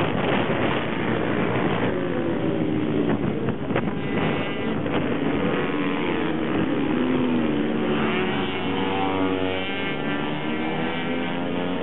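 Several small minibike racing engines running hard together, their pitch rising and falling as the bikes accelerate, shift and slow.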